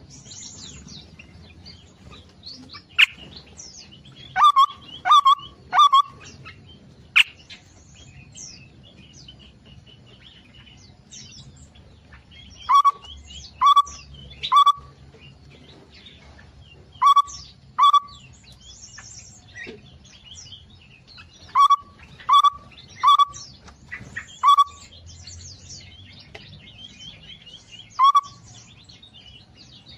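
Aviary songbirds calling: short, loud calls come in clusters of two to four every few seconds over continuous softer chirping and twittering.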